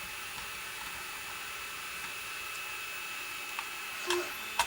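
Steady whirring hum of a printer running in the background, with two small sharp clicks near the end, like plastic parts or a tool being handled.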